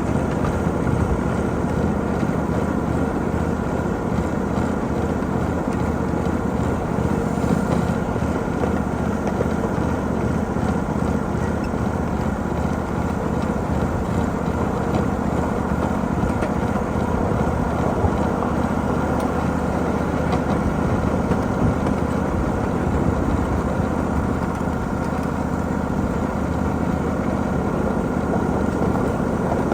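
Miniature 7.5 inch gauge freight train under way, heard from aboard: a steady engine drone with the continuous rumble of wheels on the rails.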